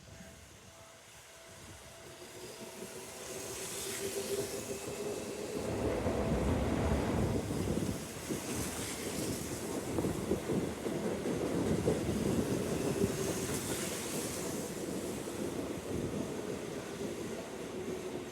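Seibu Railway electric train passing slowly through a station. It grows louder over the first several seconds, then runs steadily with a hum of steady tones over a rolling wheel rumble and some clickety-clack. A brief high hiss comes three times, about five seconds apart.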